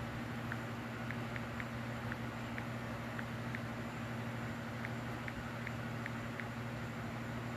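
Steady low hum over background hiss, with faint, short high chirps scattered irregularly about once or twice a second.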